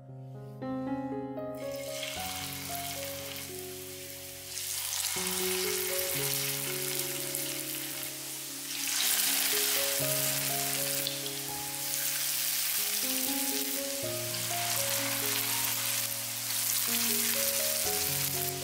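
Zucchini, carrot and potato fritters sizzling in hot oil in a frying pan, the sizzle growing louder about four seconds in and again about nine seconds in, over soft piano music.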